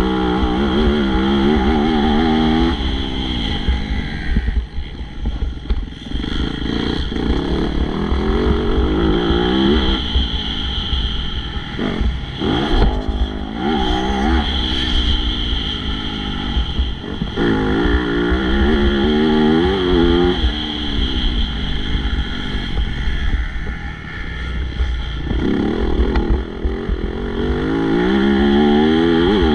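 MX2-class motocross bike engine revving hard and easing off over and over, its pitch climbing in quick steps through the gears and then dropping back every few seconds, over a steady low rumble.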